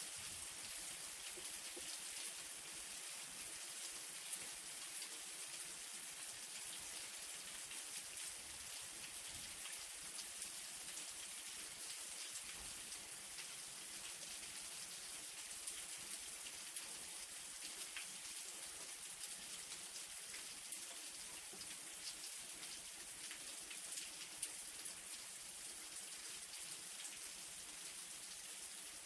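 Light rain falling, a steady soft hiss with scattered drops ticking.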